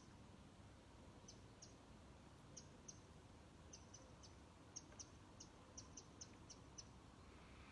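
Faint birdsong: short, high chirps, irregular and a few each second, over a faint low outdoor background.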